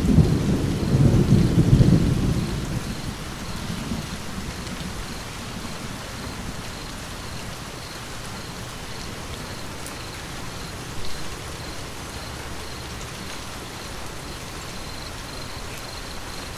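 Steady rain with a low roll of thunder at the start that rumbles for about three seconds and fades, leaving the even hiss of rain.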